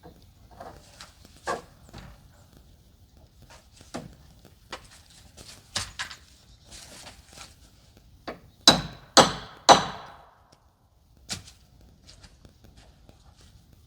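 Knocks and taps of hardware on wooden bracing while a solar panel bracket is fastened, scattered through, with three sharp strikes about half a second apart two-thirds of the way through.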